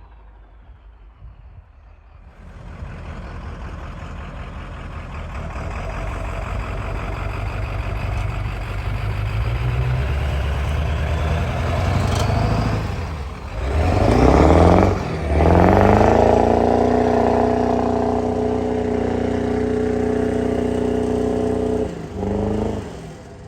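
Heavy truck engine working under load. It builds and rises in revs after about two seconds, dips briefly, then holds steady at high revs until it drops off near the end.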